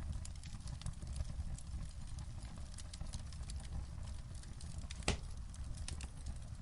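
Wood fire in a fireplace crackling, with irregular small pops over a low steady rumble of the flames and one louder pop about five seconds in.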